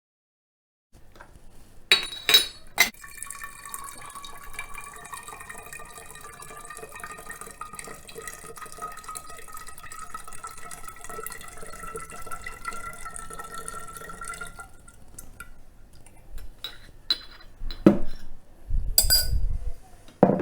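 Strained ginger and Shaoxing wine liquid poured into a glass container, a steady trickle whose pitch rises slowly as the container fills. A few glass clinks come about two seconds in, and scattered knocks and clinks near the end.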